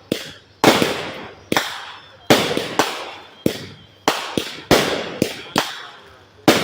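Fireworks going off in a rapid, uneven string of sharp bangs, about two a second, each trailing off in a fading echo.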